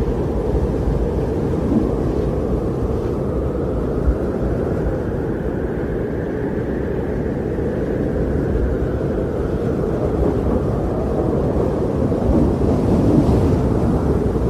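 Wind blowing, a steady low rush that swells higher for a few seconds around the middle and then settles.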